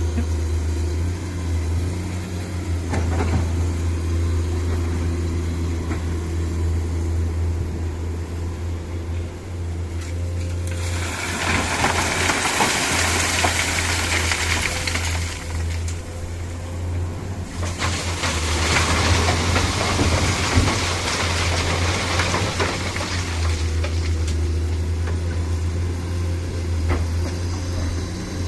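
Dump truck's diesel engine running with a steady low drone. Two long rushes of hissing noise cover it, one about ten seconds in lasting some five seconds, and another from about eighteen seconds in lasting about five more.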